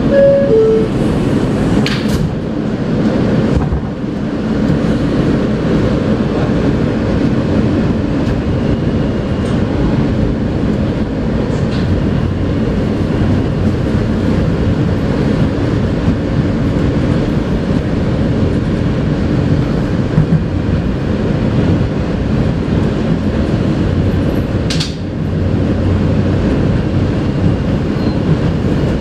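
NYC subway R160A car: a falling two-tone door chime as the doors close, then the train pulling out and running along the track with a steady rumble. There are a couple of sharp clicks, one about two seconds in and one near the end.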